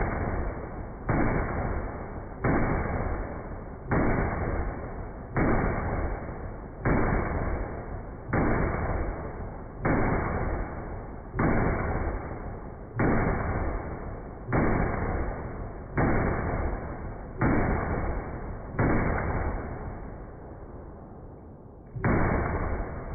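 A long run of booms, each a sudden blast with a long rumbling fade, coming a bit under a second and a half apart. After about fifteen of them there is a pause of a few seconds, then one more near the end.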